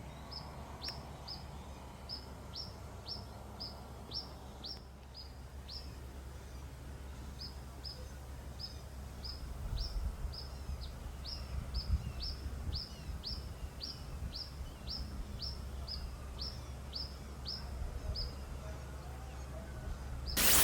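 A bird repeating a short, high, downward-sweeping chirp about twice a second, pausing once around six seconds in, over a low background rumble.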